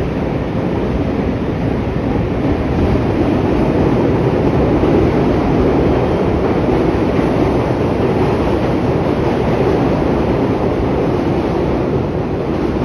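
Chicago train passing by: a steady, loud rumble of the cars on the rails that swells for several seconds and eases off near the end.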